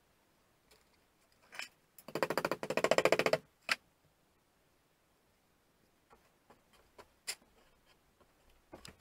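A rapid rattle of quick repeated clicks about a second long, with scattered single clicks and knocks before and after.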